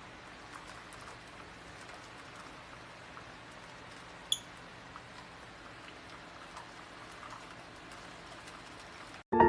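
Faint hiss with scattered small ticks and one short, high-pitched squeak about four seconds in; piano music starts just at the end.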